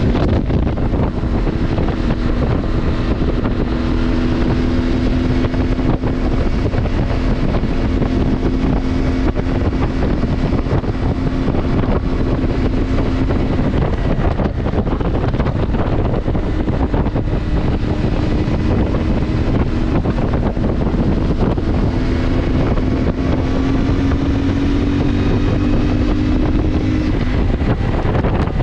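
CFMoto motorcycle engine running steadily at cruising speed while riding, with heavy wind noise buffeting the microphone. The engine note climbs a little in pitch near the end.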